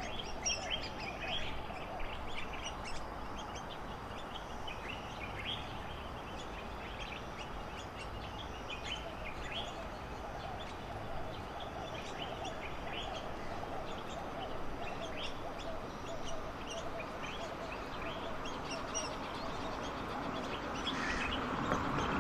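Birds calling: many short chirps, repeated throughout, over a steady background of outdoor noise.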